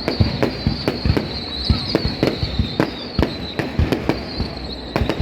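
Aerial fireworks display bursting: a rapid, uneven run of sharp bangs, several a second, over a continuous low rumble, with a thin high whistle that slowly falls in pitch.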